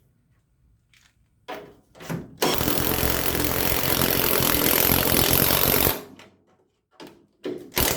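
Impact wrench hammering for about three and a half seconds, running a nut down a stud to clean up its threads, after two short blips of the trigger. It stops abruptly, followed by a few clicks and clatter.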